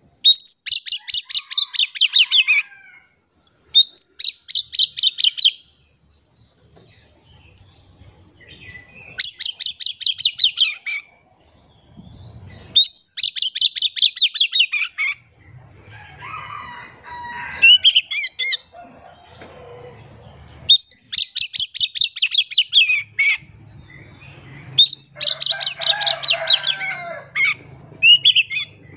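Oriental magpie-robin (kacer) singing in loud bursts of very fast, rattling repeated high notes, each burst a second or two long and coming every few seconds, with softer, lower warbled phrases between them.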